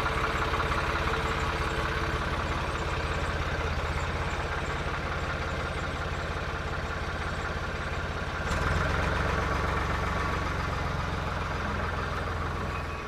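A motor vehicle's engine idling steadily, its note changing and growing a little louder about eight and a half seconds in.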